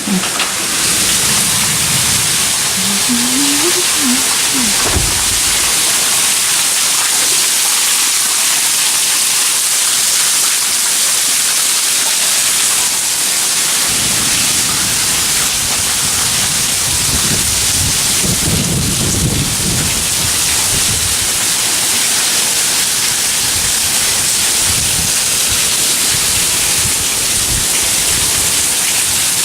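Hurricane Harvey's heavy rain pouring steadily, with wind gusts buffeting the microphone as low rumbles in the first few seconds and again about halfway through.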